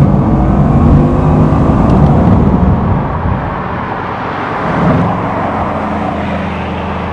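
Bugatti Chiron's quad-turbocharged 8-litre W16 engine running hard, whirring and whooshing with a rush of intake air. About three seconds in it eases to a lower, steadier drone.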